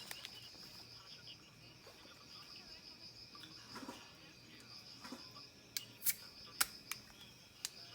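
Insects calling steadily in a high, rapidly pulsing trill, with a few sharp clicks in the second half.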